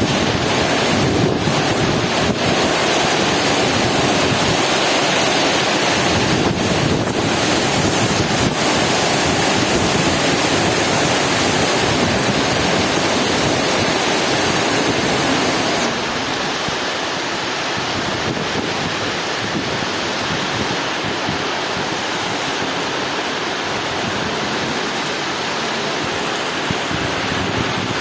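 Heavy rain pouring down, a dense steady hiss that drops a little in level just past halfway.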